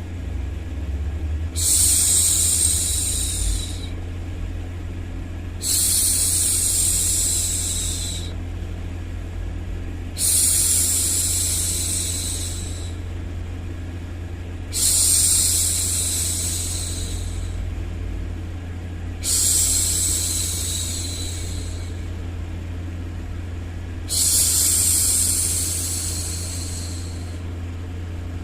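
A woman's voice hushing a baby, a long 'shhh' about every four and a half seconds, six times, each one fading away. A steady low hum of background noise runs underneath.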